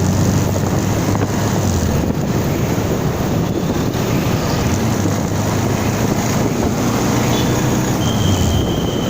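Moving vehicle at steady speed: a low, steady engine drone under loud wind noise on the microphone.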